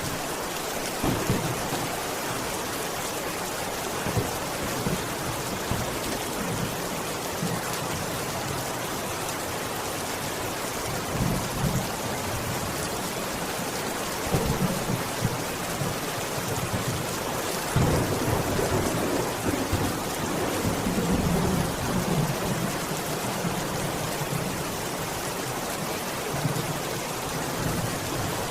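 Steady rain hissing and pattering, with low thunder rumbling through it several times, the longest roll about two-thirds of the way through.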